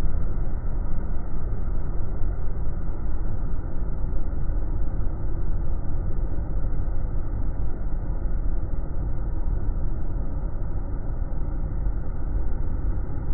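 Steady, even low mechanical rumble that holds unchanged throughout.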